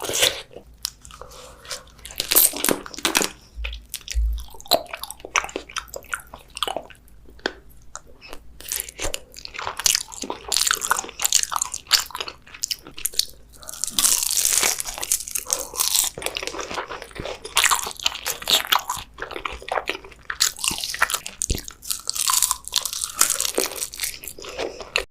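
Close-miked eating sounds: someone biting into and chewing crunchy food, an irregular run of sharp crunches with the densest, loudest stretches a little past the middle and near the end.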